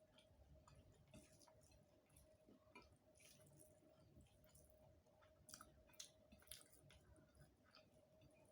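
Close-up mouth sounds of a person eating rice and curry: soft wet chewing and lip smacks with scattered sharp clicks, a few louder ones about two thirds of the way through. A faint steady hum lies underneath.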